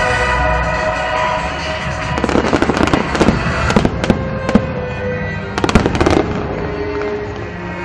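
Aerial fireworks crackling and banging over music with long held notes. The fireworks come in two bursts: a dense run of cracks and bangs starting about two seconds in, and a shorter one around six seconds.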